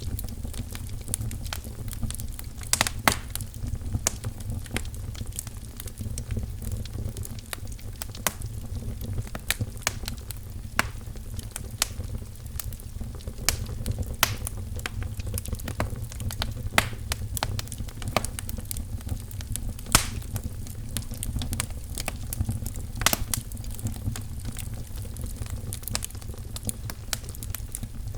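Wood fire crackling in a fireplace: irregular sharp pops and snaps, a few louder ones about three seconds in, around twenty seconds and around twenty-three seconds, over a steady low rumble.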